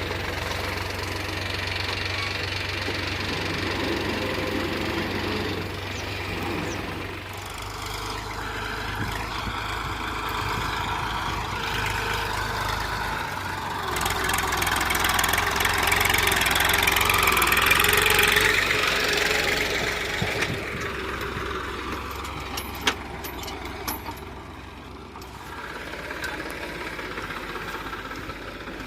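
Diesel tractor engine running steadily, growing louder between about 14 and 20 seconds in as it works harder, then easing back. There is a single sharp click late on.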